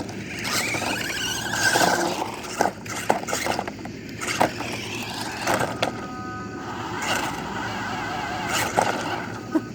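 Toy RC cars driving on the street: small electric motors whine, rising and falling with the throttle, and hard wheels and plastic bodies click and scrape on the pavement.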